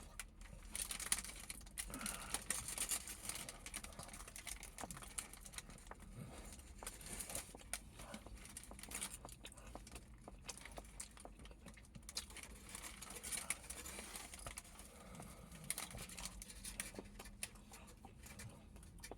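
Eating a döner kebab close to the microphone: chewing and the wrapping paper crinkling, a steady stream of small irregular clicks and rustles.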